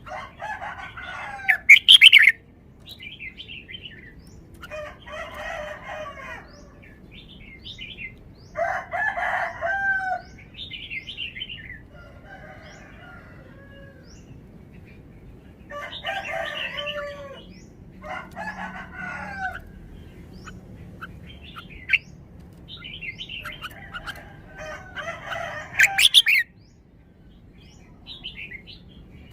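Red-whiskered bulbul singing, repeating short warbled song phrases of a second or two each, with brief higher chirps between them.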